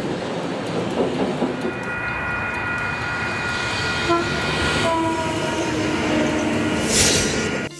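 High-speed electric train running past: a steady rumble of wheels on the track, joined after about two seconds by high steady whining tones that step down and slowly fall in pitch from about the middle. A rushing surge comes near the end.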